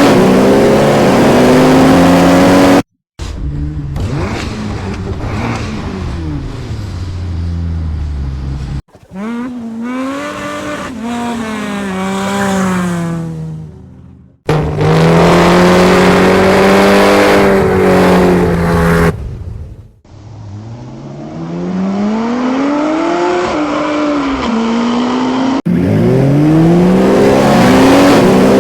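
Ferrari Purosangue's naturally aspirated V12 in a run of short clips joined by abrupt cuts. The engine revs up hard with rising pitch, blips up and down, holds a loud high note, and winds down as it slows.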